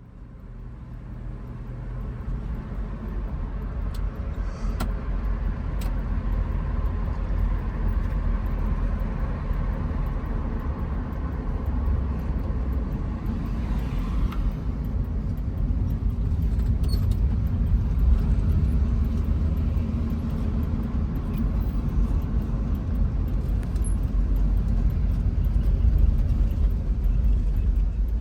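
1966 Ford Mustang's engine running steadily, with a deep, low exhaust note.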